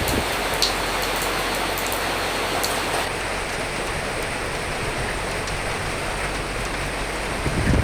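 Steady rain, an even hiss with a few sharp drop ticks in the first three seconds. The low wind rumble is faint until it swells again near the end.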